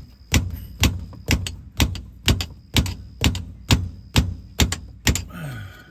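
Steady hammer blows, about two a second, eleven in a row, stopping about five seconds in.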